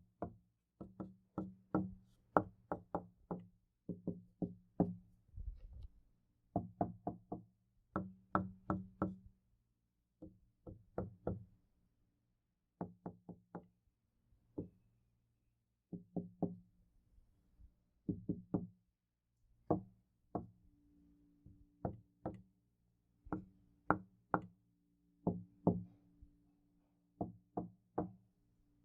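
Knocking on a door in quick clusters of a few knocks, with short pauses between clusters. A low resonance lingers between the knocks.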